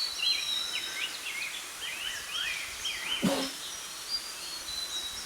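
Several forest birds calling at once: thin high whistles and a run of quick, repeated up-and-down chirping notes. There is one brief sharp noise about three seconds in.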